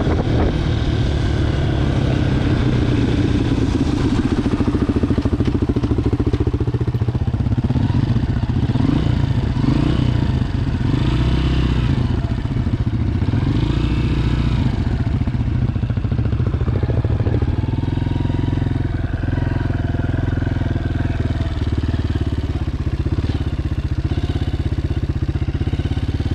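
Honda CRF230F's single-cylinder four-stroke engine running at low speed close to the camera. The revs rise and fall a few times around the middle, then hold steadier toward the end.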